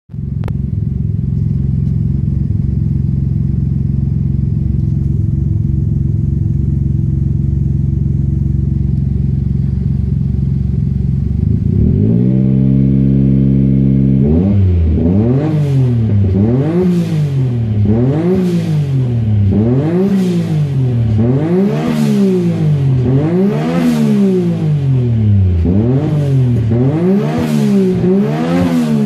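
A car engine idles steadily, then its idle steps up about twelve seconds in, and from about fourteen seconds it is revved repeatedly: a dozen or so quick rev-ups and drops, roughly one a second.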